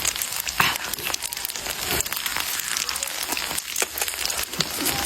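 Tofu frying in hot oil: a steady sizzle with many small irregular pops and crackles.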